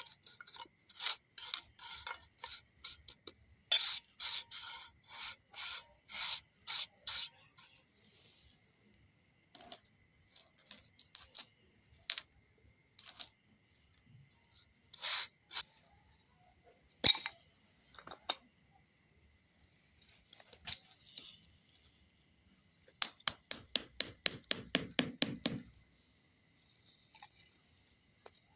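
Repeated rasping strokes of hand craft work, in runs of short, evenly spaced strokes with scattered single ones between, and a faster, heavier run near the end.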